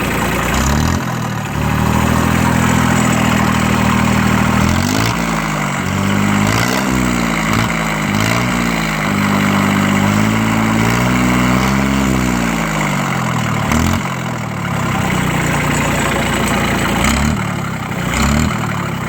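Ford 1520 tractor's three-cylinder diesel engine running through its new muffler. The throttle is raised from idle, the revs are swung up and down several times, and the engine drops back to idle about two-thirds of the way through, with a couple of short blips near the end.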